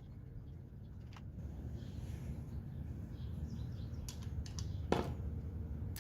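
A few scattered light clicks and knocks of metal tools handled on a small dirt bike, with the loudest knock about five seconds in, over a low steady rumble.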